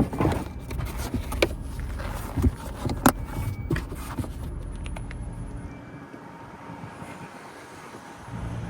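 Things being handled in a car's trunk: a thump, then a few sharp clicks and knocks, the loudest about three seconds in, before only a low steady background rumble remains.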